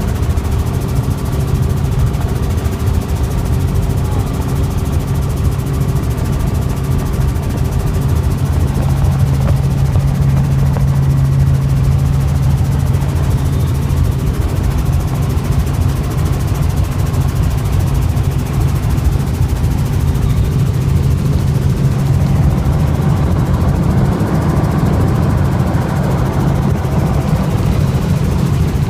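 Helicopter engine and rotor running steadily in flight: a constant low drone with a fast, even rotor flutter.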